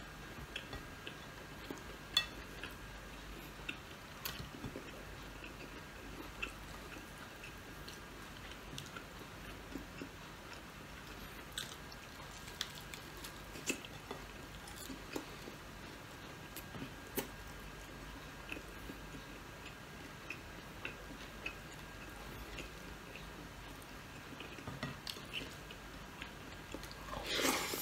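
Close-up eating sounds: a person chewing and biting crispy fried milkfish and rice eaten by hand, with many small, irregular crunches and clicks. A louder patch comes near the end.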